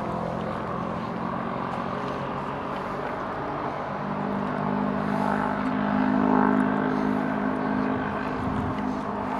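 Engine drone with a steady low hum that swells about halfway through and eases toward the end, like a motor vehicle passing.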